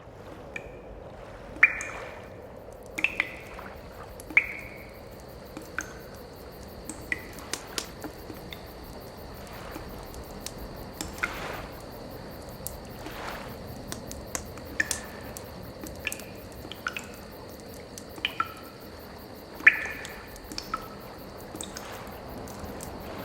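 Water dripping: separate drops plinking at irregular intervals, roughly one a second, over a steady hiss with a faint high whine.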